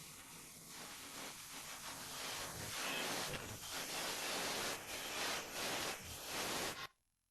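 Rushing hiss-like noise that grows louder about two seconds in and cuts off suddenly near the end.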